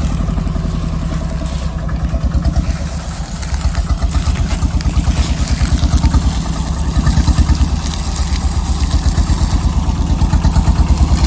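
Engine of an open-frame Thai farm truck running under way, a steady, fast, even chugging.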